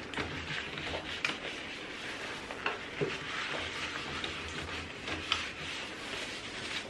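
Hands working an inkjet printer's cartridges and printhead cleaning kit: a soft, crackly rustle with a few scattered small clicks.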